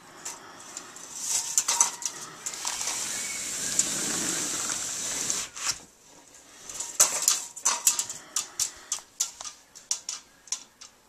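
Seagulls heard from indoors: a rushing noise for a few seconds, then a quick run of sharp taps and clicks.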